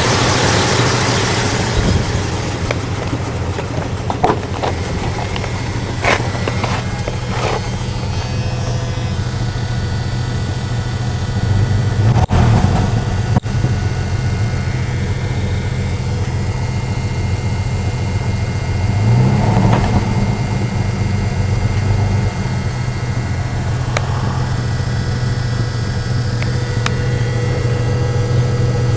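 Dodge Dakota pickup's engine idling steadily, revved up briefly about twelve seconds in and again, with a clear rise in pitch, about nineteen seconds in. A few sharp clicks sound early on.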